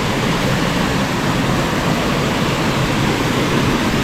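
Water pouring over a small waterfall: a steady, loud rush of falling water.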